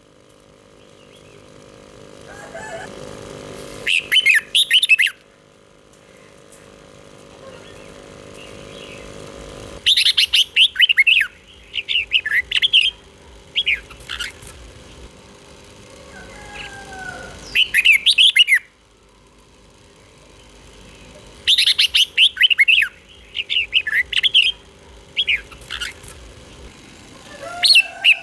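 Red-whiskered bulbul singing short, quick warbled phrases of bright chirping notes, repeated every few seconds with pauses between, over a faint steady hum.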